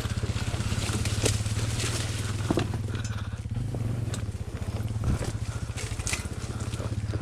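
Trail motorcycle engine running steadily at low revs, a fast even putter, with scattered clicks and crunches over it.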